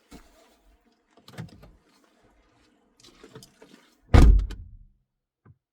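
A few faint rustles and knocks, then a car door slamming shut about four seconds in: one heavy thump with a short low boom.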